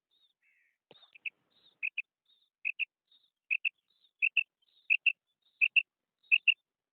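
Female quail calling: a steady run of quick paired notes, about one pair every 0.7 seconds, starting about a second in and growing louder, with faint higher notes between the pairs.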